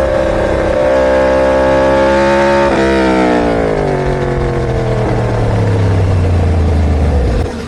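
A superbike's inline-four engine running at high revs with a steady high pitch for almost three seconds, then falling steadily in pitch as the revs come down. The sound drops off sharply near the end.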